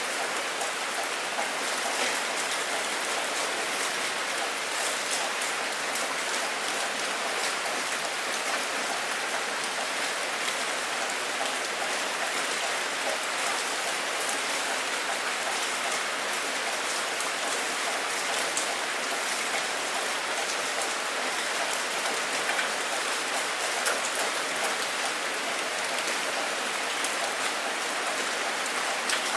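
Steady heavy rain falling, a dense even hiss with many single drops ticking through it. No thunder is heard.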